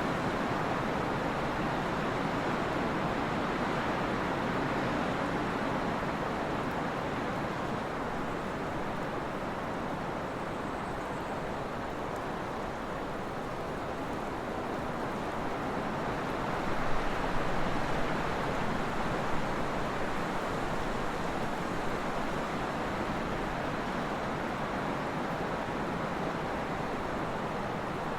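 Steady trade wind rushing, easing a little midway, with a few brief louder bumps about two-thirds of the way in.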